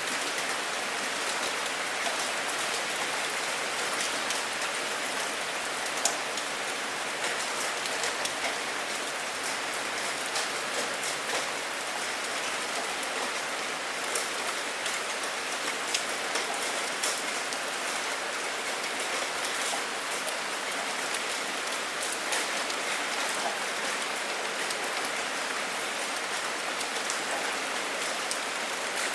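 Steady rain falling, an even hiss with many individual drops striking close by as sharp ticks.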